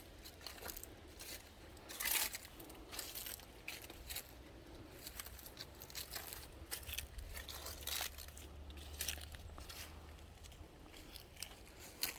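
Faint, irregular crunching and rustling footsteps on dry ground, over a low rumble.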